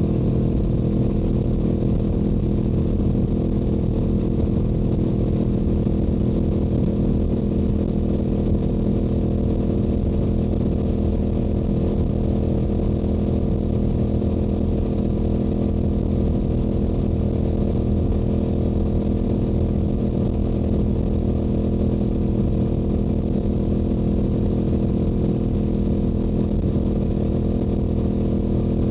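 Stock Yamaha YZF-R7's parallel-twin engine running at a steady, unchanging speed while cruising on the highway, with wind noise underneath.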